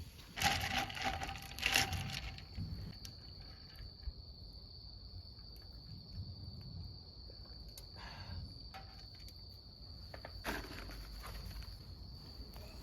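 Crickets trilling in one steady, unbroken high tone. Short bursts of rustling or handling noise come near the start, about eight seconds in, and again about ten seconds in.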